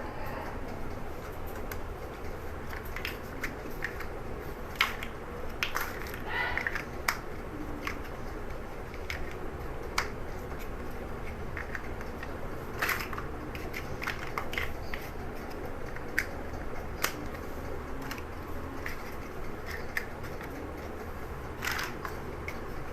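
Plastic Lego bricks being handled and pressed together: scattered sharp clicks and short rustles at irregular intervals, over a steady low hum.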